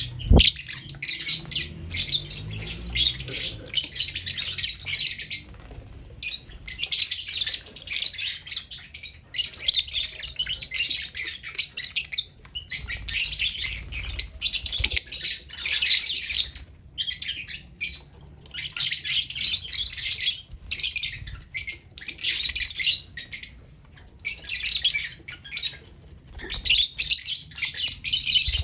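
Pet lovebirds chattering: high-pitched chirping in bursts of a second or two, almost without pause.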